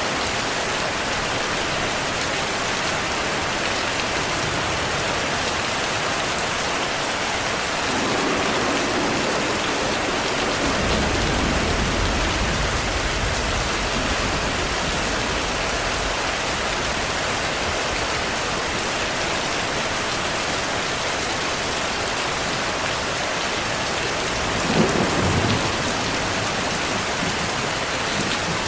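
Steady heavy rain falling, with thunder: a low rumble builds about eight seconds in and lingers for several seconds, and a sharper crack of thunder comes near the end.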